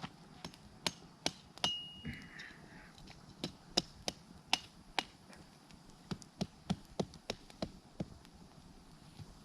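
A hand tool striking repeatedly: about eighteen sharp knocks in uneven runs, with short pauses a couple of seconds in and again about five seconds in, like chopping firewood or hammering.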